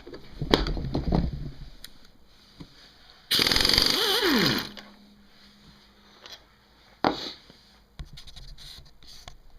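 An impact wrench rattles on the VN750's stator nut in one burst of just over a second, a few seconds in. Before it there is a clatter of tools and parts, and a single knock comes later.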